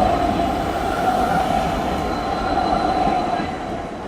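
A city tram running past on its rails, with a steady metallic whine from the wheels over the rumble, dying away after about three and a half seconds.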